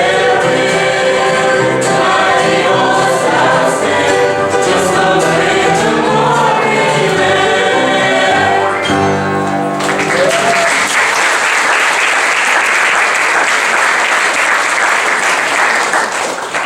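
A choir singing a gospel song, ending on a held chord about nine seconds in, followed by the congregation applauding.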